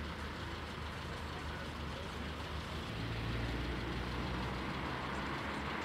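Car engine idling, a steady low hum, with a second, deeper engine note coming in about halfway through.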